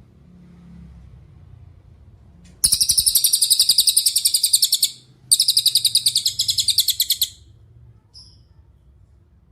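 Cililin songbird singing two fast high-pitched trills of rapidly repeated notes, each about two seconds long with a short pause between, followed by one faint short chirp near the end.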